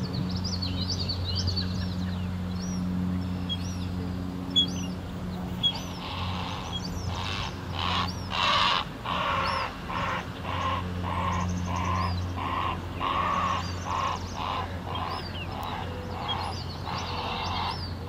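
Wild birds calling: small birds chirping high up throughout, and from about six seconds in a long run of harsh, repeated calls, roughly one or two a second, with a steady low hum underneath.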